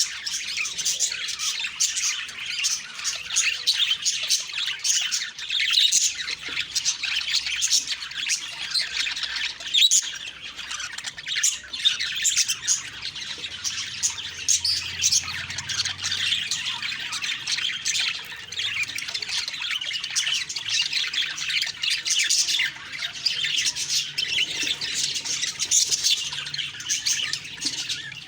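Budgerigars chirping and squawking in a steady, unbroken chatter of many quick overlapping calls.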